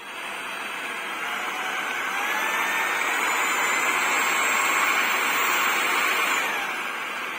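LEVOIT VortexIQ 40 cordless stick vacuum running, a steady rushing whirr with a high motor whine. The whine rises and grows louder over the first few seconds, then falls back and quietens about six and a half seconds in.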